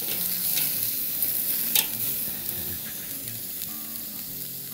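Steaks sizzling and crackling on the grate of a charcoal kettle grill over direct hot coals, with one sharp click about two seconds in; the sizzle eases off slightly in the second half.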